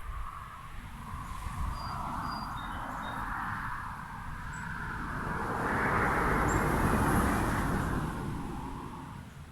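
A vehicle passing by, its tyre and engine noise swelling to a peak about six to seven seconds in and then fading away. A few faint bird chirps sound over it.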